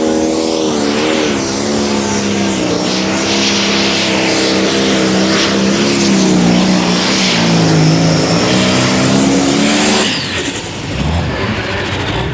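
Pulling vehicle's engine at full throttle under load down the track, its pitch wavering and sagging. It cuts off about ten seconds in as the driver comes off the throttle at the end of the pull.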